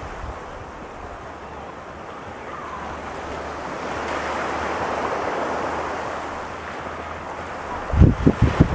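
Pacific surf: a wave breaks and washes up the beach as a rushing noise that swells to its loudest about halfway through and then eases off. Near the end, gusts of wind buffet the microphone with low thumps.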